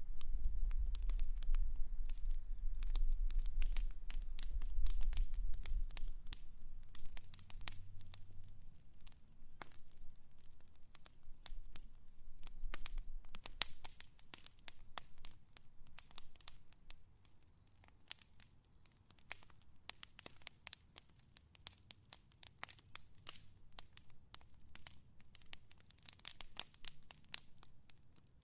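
Fire crackling: a dense, irregular stream of sharp pops and snaps, with a low rumble underneath for roughly the first six seconds that then fades away.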